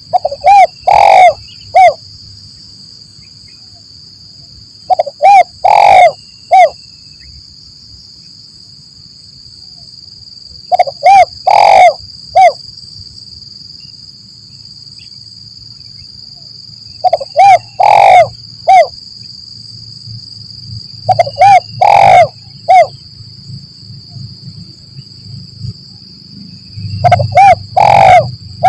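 Spotted dove (tekukur) cooing: six phrases, each of three or four notes with the loudest, longest note in the middle, repeating about every five to six seconds. A steady high-pitched whine runs behind the calls.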